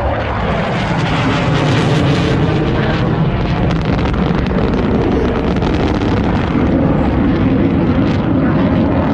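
Airplane flying past: a loud, steady engine rush with no breaks.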